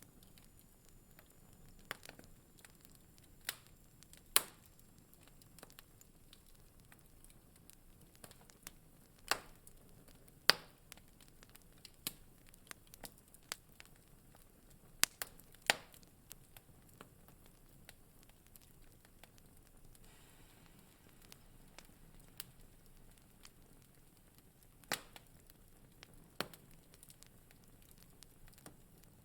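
Wood fire crackling in a fireplace: irregular sharp pops and snaps, a few much louder than the rest, over a faint quiet background.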